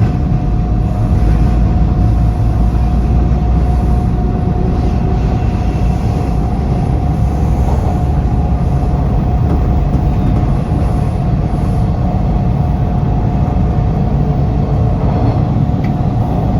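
TTC subway train running between stations, heard from inside the car: a loud, steady rumble with a steady whine held above it.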